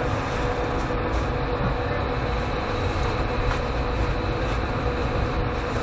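Steady running noise of a passenger train heard from inside the coach, a dense rumble with a faint steady hum through it.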